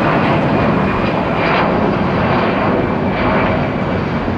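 Jet airliner engines running loud and steady, a continuous rushing roar.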